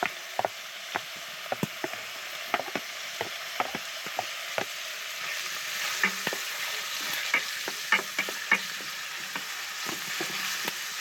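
Chopped bacon sizzling as it pre-fries in hot oil in a pan, a steady hiss with many irregular sharp clicks and pops.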